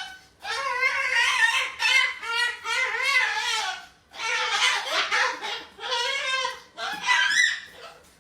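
A pet parrot chattering in about five short, high-pitched, speech-like phrases, with pauses between them.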